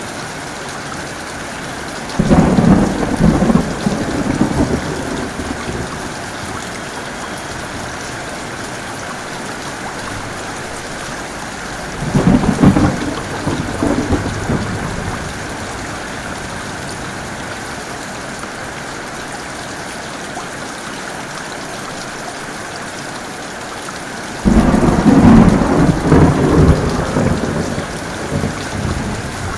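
Steady heavy rain with three claps of thunder, each breaking suddenly and rumbling away over a few seconds: about two seconds in, near the middle, and near the end.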